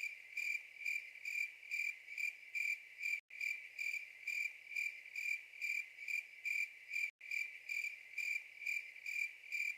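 Cricket chirping sound effect: a steady run of short, even chirps, about two or three a second, with two brief dropouts. It is the comic 'crickets' of an awkward silence, meaning nobody has an answer.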